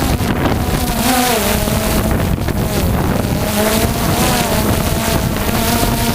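Wind buffeting the microphone over the steady drone of a boat motor, whose hum wavers slightly in pitch.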